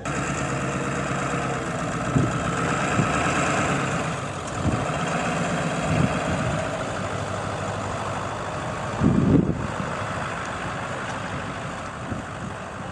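Truck engine idling steadily. Brief low buffeting sounds come and go, the loudest about nine seconds in.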